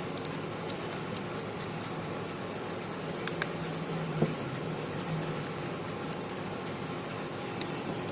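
A steady fan-like hum with a few short, sharp clicks, about three seconds in, a little after four seconds, and near the end.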